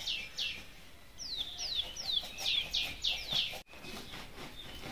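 A small bird calling a fast run of high, down-slurred chirps, about three a second. The chirps come in two runs and break off a little past three seconds in.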